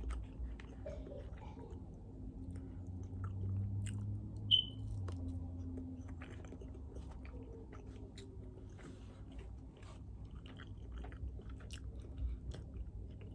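A person chewing and eating close to the microphone, with scattered small mouth clicks and smacks. A short, high-pitched squeak about four and a half seconds in.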